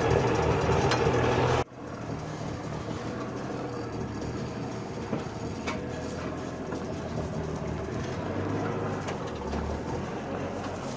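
REO 6x6 military-style truck engine running loudly, then dropping suddenly about a second and a half in to a quieter, steady running with a few faint rattles.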